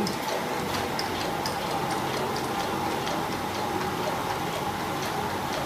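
A big Stirling engine running, its mechanism clicking in a steady, even rhythm over a steady hum.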